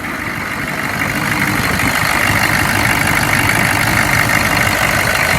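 A GM 6.5-litre V8 diesel idling smoothly, a steady even running sound that gets a little louder over the first second or two. The engine has just been brought back to life with starting fluid after sitting idle for over six months, and it is running without overheating.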